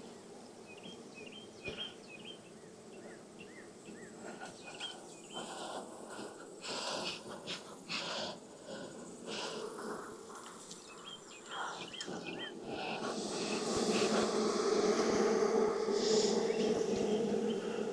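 Honeybees buzzing around an open hive. A few short scrapes and knocks come in the middle, then the hum swells and is loudest in the last few seconds.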